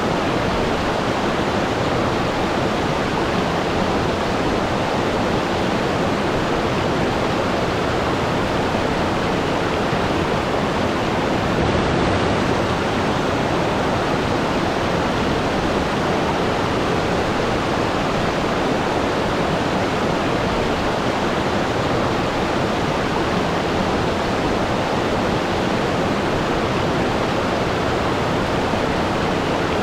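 Waterfall: water falling steadily, an even, unbroken noise with no changes.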